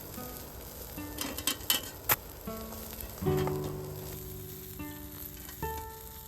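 A steady sizzling hiss with a few sharp clicks about one to two seconds in, under soft background music of slow, sustained piano-like notes.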